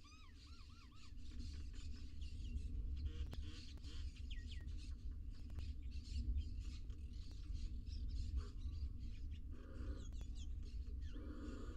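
Birds chirping in short runs of quick rising-and-falling notes, over a steady low hum with scattered clicks and scratches.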